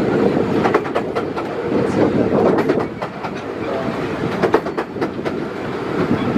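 Miniature railway carriage running along the track: a steady rumble with irregular clicks from the wheels over the rail joints.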